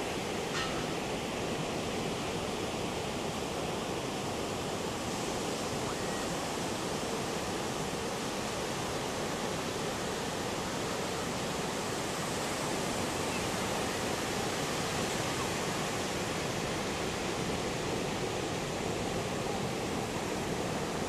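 Surf breaking on the shore in a continuous rush of noise that swells a little about halfway through. This is the heavy swell running ahead of an approaching typhoon.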